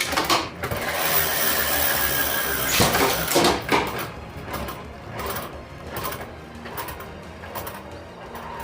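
3D-printed Beyblade spinning tops whirring and scraping around a plastic stadium, with a few sharp clacks as they collide about three seconds in.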